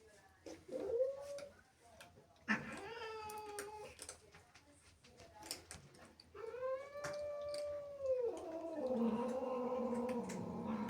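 Domestic cat caterwauling in anger: a short yowl, then two long drawn-out yowls, then a lower, steadier yowl near the end. It is the cat's angry, jealous reaction to kittens on her territory.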